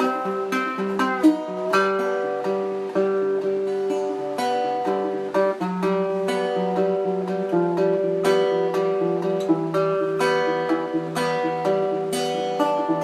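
Acoustic guitar music: plucked and strummed chords and single notes that ring on over one another, struck several times a second.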